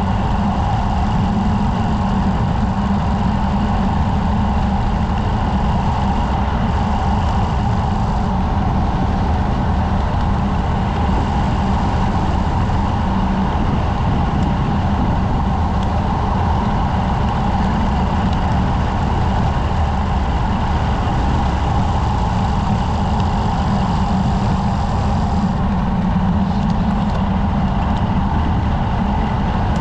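Loud, steady wind noise on the microphone of a bike-mounted camera during a fast road-bike descent.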